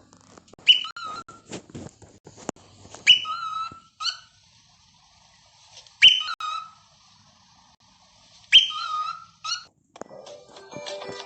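A parrot whistling the same short two-part call four times, about every two and a half seconds: a sharp high note dropping straight into a lower, wavering whistle.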